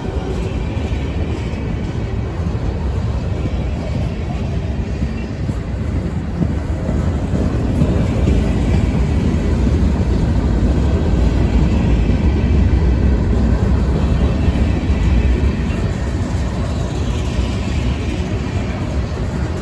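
A train rolling past, a steady low rumble that grows a little louder about eight seconds in.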